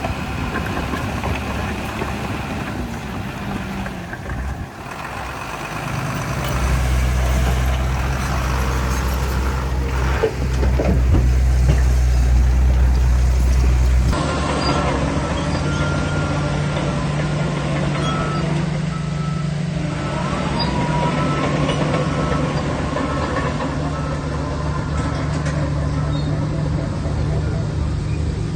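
Heavy diesel engines of a bulldozer and dump trucks running, growing louder about a quarter of the way in as the machine works harder. After an abrupt change about halfway through, the engines run more steadily and a faint, evenly broken reversing beeper sounds.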